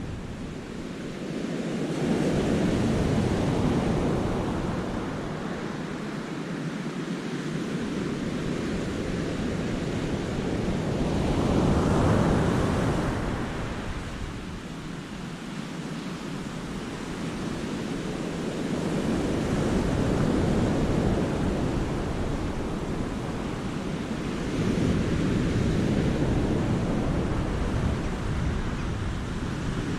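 Sea waves breaking and washing onto a rocky cove's shore, swelling and falling back in slow surges every several seconds, the largest about twelve seconds in. A low wind rumble on the microphone runs underneath.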